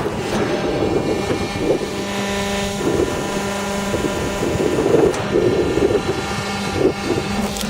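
Engine of a powered wood splitter running steadily, with irregular heavier surges throughout.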